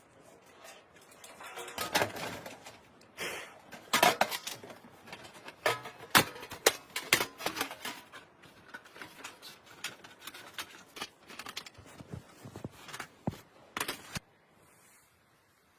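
Irregular clicks, knocks and rustles of objects being handled, a few sharper clatters among them, stopping suddenly about 14 seconds in.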